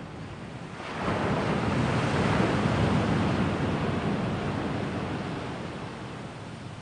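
Sea waves on the shore: a wave breaks about a second in, and its wash swells and then slowly dies away over the next few seconds.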